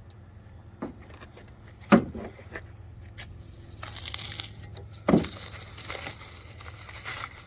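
Packing material being handled while unpacking: a few sharp knocks, the loudest about two seconds in, and plastic wrap crinkling from about four seconds in.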